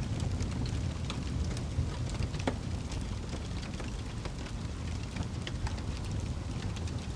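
Wood fire burning in a fireplace: a steady low rumble of the flames with frequent sharp crackles and pops, one louder pop about two and a half seconds in.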